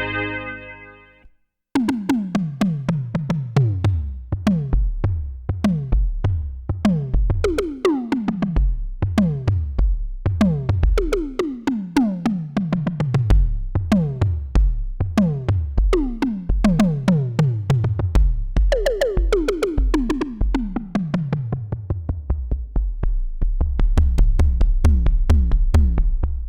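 Roland JX-8P analog polysynth playing a percussive patch in a rhythmic pattern. Each note has a sharp attack and a pitch that drops quickly, like a synth tom, over a low bass line. At the start the previous patch's held chord fades out, with a short gap before the new patch begins.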